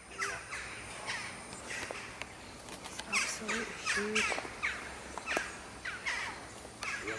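A bird calling over and over: short calls that fall in pitch, about two a second.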